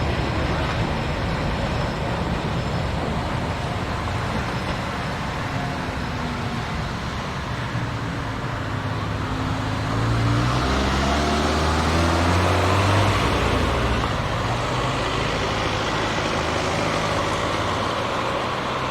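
An engine-driven vehicle passing close by, its engine note swelling and dipping in pitch about halfway through, over a steady noise of traffic or running gear.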